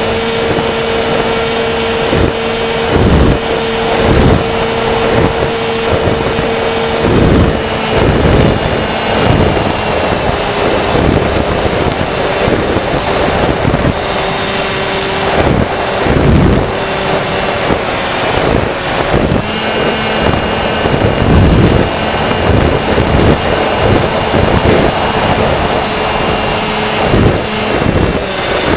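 Electric motors and propellers of a radio-controlled model aircraft whining steadily in flight, the pitch stepping down about 8 seconds in and shifting again near 20 seconds as the throttle changes. Frequent low thumps run through it.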